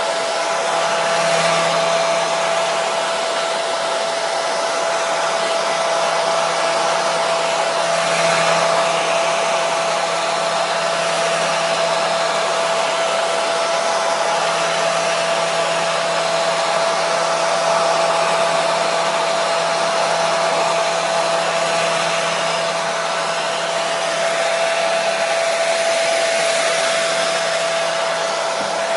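Hair dryer blowing steadily, a constant rush of air with a steady motor whine, played as white noise to soothe a colicky baby.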